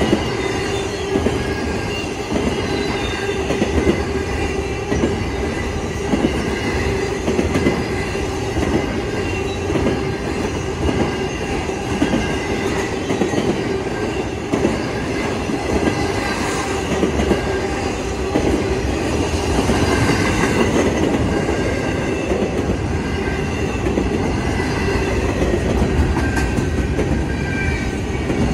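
BNSF intermodal freight train's container and trailer cars rolling past without a break: continuous wheel clatter over the rails, with a steady wheel squeal running through it.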